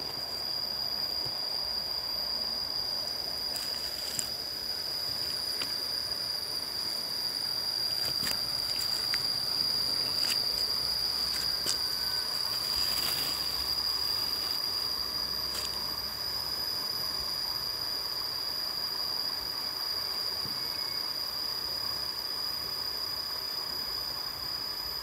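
A steady, high-pitched insect drone, one unbroken tone, over a faint rushing background, with a few scattered clicks.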